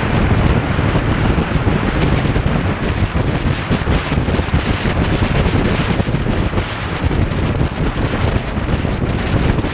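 Steady wind noise buffeting the microphone of a moving motorcycle, a dense rushing sound heaviest in the low end, with no distinct engine note standing out.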